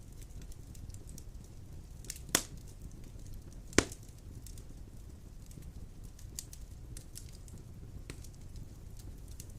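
Wood fire burning in a fireplace: a steady low rumble of flames with small scattered crackles and two loud sharp pops about a second and a half apart.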